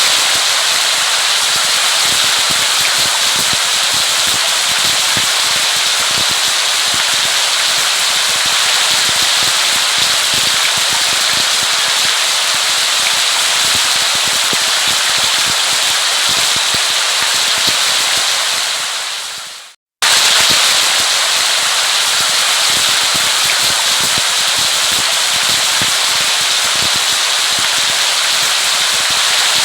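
Steady heavy rain, a dense crackling patter. Just before twenty seconds in it fades out to a moment of silence, then starts again at full level.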